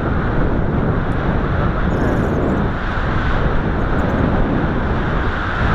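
Strong wind rushing across the microphone: a loud, steady buffeting rumble with no engine tone in it.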